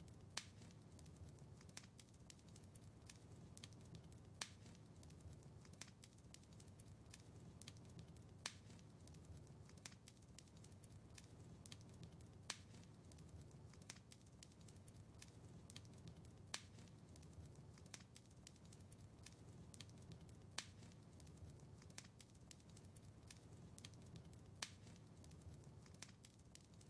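Wood fire crackling in a fireplace: scattered sharp pops and snaps over a soft low rumble of flames, with a louder pop about every four seconds.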